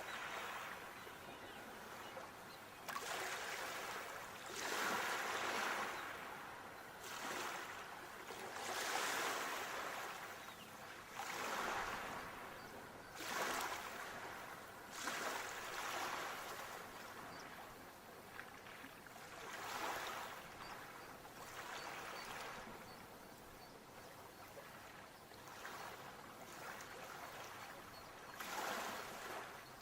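Sea waves washing in, a rush of water that swells and fades every few seconds.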